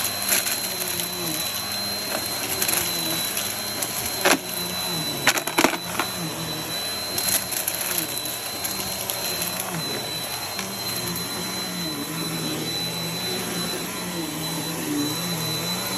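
Vacuum cleaner running steadily, its motor a constant rush with a high whine, with a few sharp knocks and clicks about four to six seconds in as it picks up debris or bumps something.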